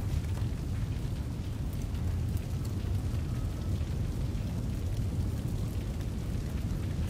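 Fire burning in a fireplace: a steady low rush of flames with faint, scattered crackles.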